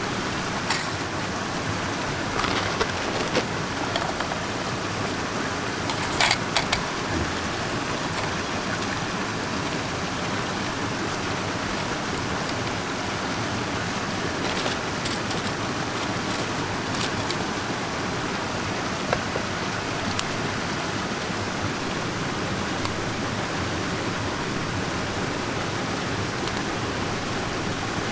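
Mountain stream rushing steadily, with scattered small clicks and knocks over it, the loudest about six seconds in.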